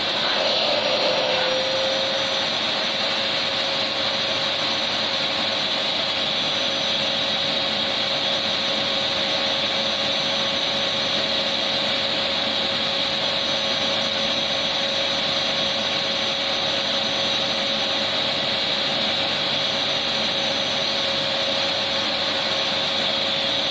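Electric vacuum cleaner running steadily: an even rushing hiss of air with a constant motor whine.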